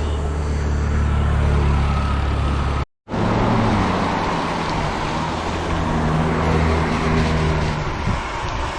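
Motor vehicle engine and road noise close by, a steady low hum. It cuts out for a moment about three seconds in, then resumes with the engine note slowly shifting.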